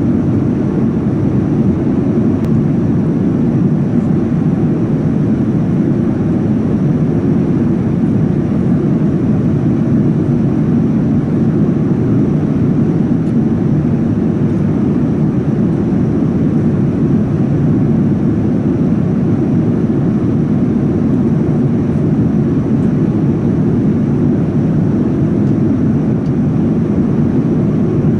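Steady cabin noise of a Boeing 787-9 in flight: an even, low rumble of airflow and its GE GEnx-1B engines, with no change in pitch or level.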